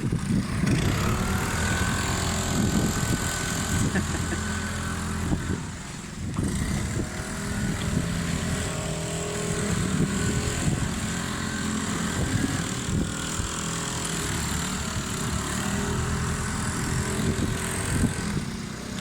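Small engines running steadily, with a thin whine over them for the first few seconds and a brief lull about six seconds in.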